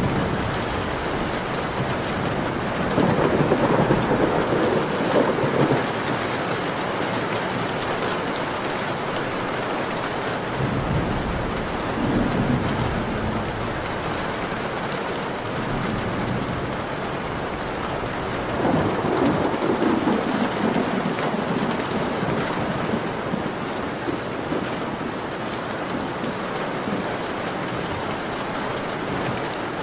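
Steady rain falling, with low rolling rumbles of thunder swelling up three times, about three, eleven and nineteen seconds in.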